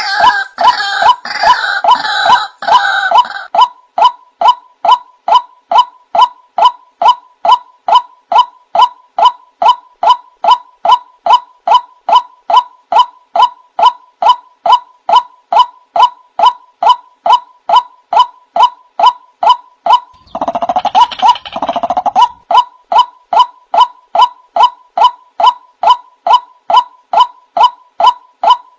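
Male white-breasted waterhen calling: a loud, monotonous 'wak' note repeated about twice a second. Rougher, harsher calls join in at the start and again about twenty seconds in.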